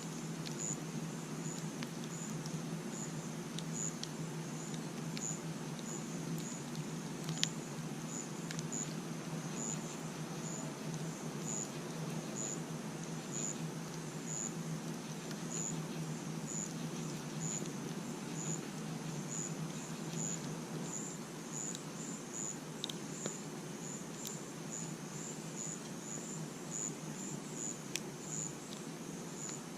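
A cricket chirping steadily, about one and a half short high chirps a second, over a crackling campfire with a few sharp pops, the loudest about seven seconds in and near the end.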